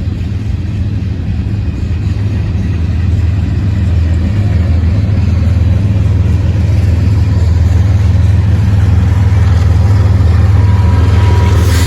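Diesel-electric locomotive with DC traction motors, a distributed power unit at the rear of a freight train, running as it passes: a loud, deep, steady engine drone that grows louder through the first few seconds.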